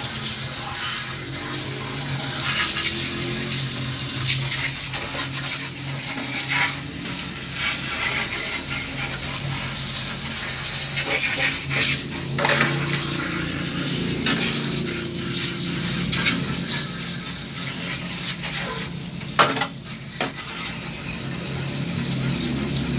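Water sprayer hissing steadily as its spray washes dust off a window air conditioner, less forceful than a pressure washer, with a few short clicks and knocks.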